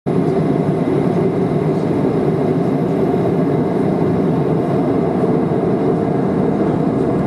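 Boeing 737-500 with CFM56-3 jet engines, a steady low rumble that holds the same pitch and level.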